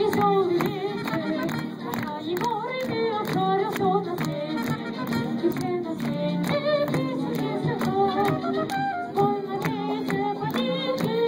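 A child singing a melodic song solo over an instrumental accompaniment with a steady beat.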